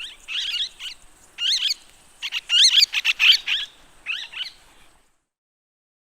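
Parakeet calling: a run of quick, shrill, swooping chirps in bursts that stop about five seconds in.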